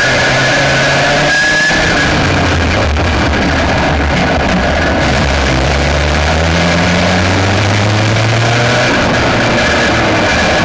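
Aixro Wankel rotary kart engine heard on board at racing speed. The revs dip briefly about a second and a half in, climb steadily through a long acceleration, then drop near the end as the throttle comes off.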